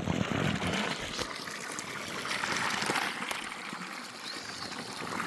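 Water running steadily, a continuous trickling, gushing flow.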